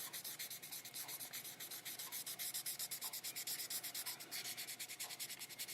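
Fine 6000-grit wet sandpaper rubbed over the painted body of a scale model car in quick, even back-and-forth strokes, several a second, faint and hissy.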